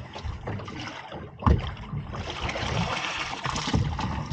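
A single hard knock on the boat about a second and a half in, then water splashing and rushing for the last two seconds.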